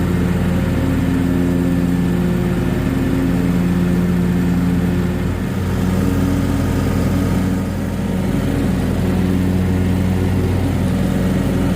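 John Deere 1023E compact tractor's three-cylinder diesel engine running steadily while mowing, with two brief dips in level about five and a half and eight seconds in.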